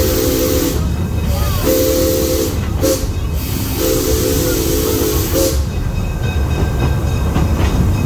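Steam locomotive's chime whistle sounding a series of blasts, long ones and short ones, with a breathy hiss, over the steady low rumble of the train running.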